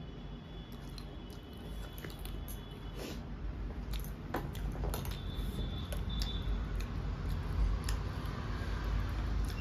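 A person chewing food, with soft squishes and scattered clicks as fingers mix rice and curry on a steel plate.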